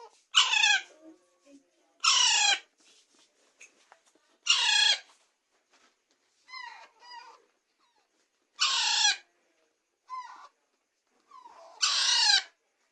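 Young Alexandrine parakeet chicks calling: five loud, harsh screeches of about half a second each, spaced roughly two seconds apart, each falling in pitch. A few shorter, fainter calls come in between.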